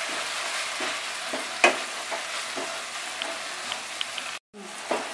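Oil sizzling in a nonstick pan as prawns and fried potato cubes are stirred through the masala with a spatula over low heat, with sharp scrapes of the spatula against the pan, the loudest about a second and a half in. The sound cuts out for a moment about four seconds in.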